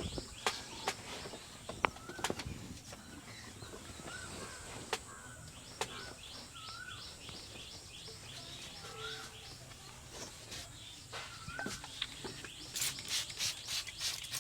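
Birds chirping, a rapid run of high repeated chirps with short warbling calls about once a second, over scattered sharp clicks. Near the end a fast series of sharp taps or slaps begins, about four a second.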